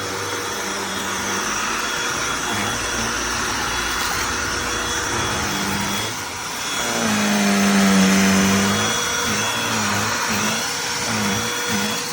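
Cordless handheld vacuum running steadily. About two thirds through it gets louder for a couple of seconds as its pitch sags and recovers, followed by several short dips in pitch.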